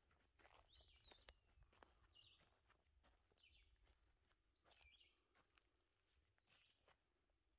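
Faint outdoor birdsong: a bird repeating short, high calls about every one to one and a half seconds, over faint crackles and ticks.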